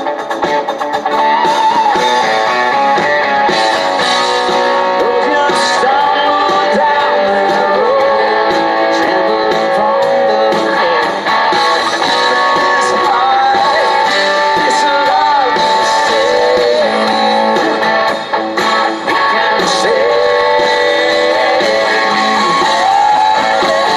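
A live band playing a country-rock song, with strummed and electric guitars and a melody line that bends in pitch.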